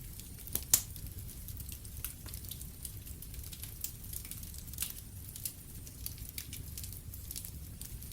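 Wood fire crackling in a fireplace: scattered sharp pops and snaps over a low steady rumble, with one loud pop under a second in.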